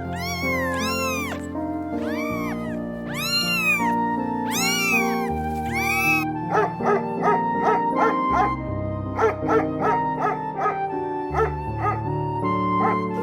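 Repeated animal calls over background music: about six rising-and-falling calls in the first six seconds, then a quicker run of short, sharp calls.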